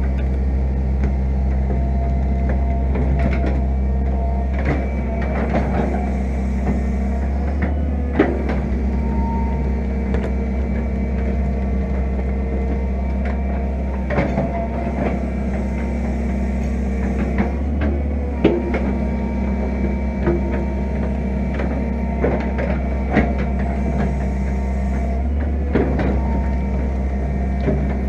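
Fiat-Hitachi EX165 crawler excavator's diesel engine running steadily at a constant pitch, with scattered sharp knocks and clanks from the machine digging.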